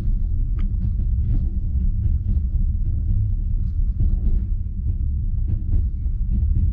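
Passenger train coach running along the track, heard from inside the carriage: a steady low rumble of wheels on rails, with scattered short clicks and knocks.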